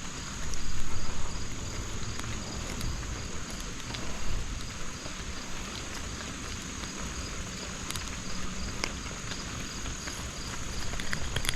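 Insects chirping steadily outdoors: a continuous high trill with a softer pulsed chirp repeating about twice a second. A low rumble swells briefly about a second in, and a few faint clicks come near the end.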